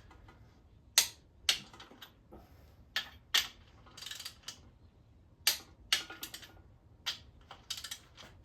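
Torque wrench ratcheting on crankshaft main cap bolts: a series of sharp, irregular clicks, some in quick pairs.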